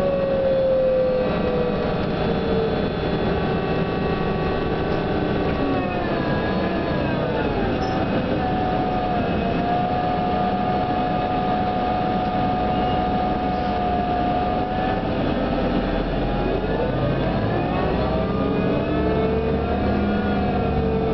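New Flyer DE42LFA diesel-electric hybrid bus's drive system, heard from on board: a whine over the engine and road noise. It falls in pitch, holds steady for several seconds, then rises again about 16 s in as the bus changes speed.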